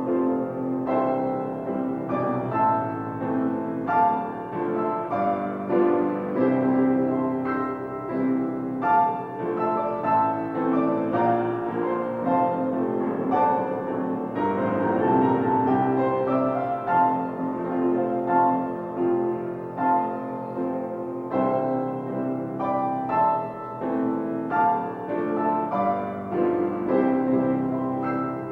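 Piano playing an instrumental piece, with a steady flow of separate notes and chords.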